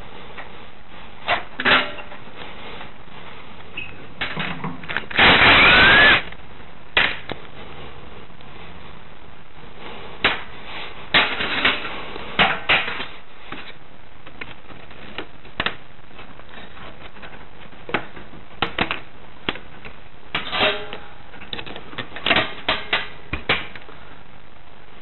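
Scattered metal clicks, clinks and knocks of hand tools and parts while a Honda Today scooter's engine is being unbolted and taken off the frame, with one louder rushing burst of about a second near the five-second mark.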